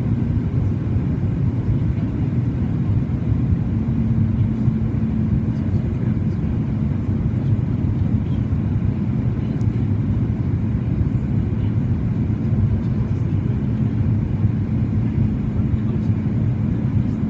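Cabin noise inside a Boeing 737 MAX 8-200 airliner in flight: a steady rumble of engines and airflow, with a steady hum that grows stronger about four seconds in.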